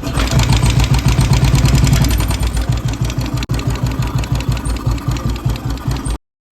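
Royal Enfield Thunderbird 350 single-cylinder engine idling with an even beat of about seven pulses a second and a "chu chu chu" noise from the top end. On teardown the mechanic traced the noise to sticking valves and pitted rockers, caused by oil not reaching the head.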